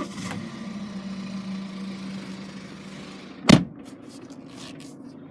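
BMW X1 xDrive18d's 2.0-litre turbo diesel engine starting on the push button and settling to a steady idle, heard from inside the cabin. A single loud knock comes about three and a half seconds in.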